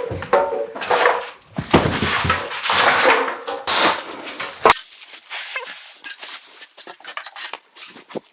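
Cardboard and packaging scraping and rustling while a mini fridge is unboxed, for about four and a half seconds, ending in a sharp knock; then only faint, scattered rustles.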